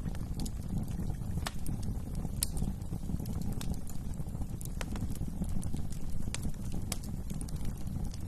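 Wood fire crackling: irregular sharp pops and snaps, one or two a second, over a steady low rumble of burning.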